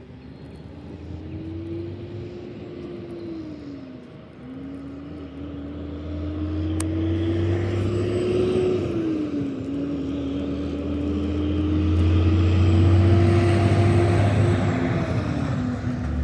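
An engine droning, its pitch rising and falling slowly and dipping twice, over a low rumble that grows louder; a single sharp click about seven seconds in.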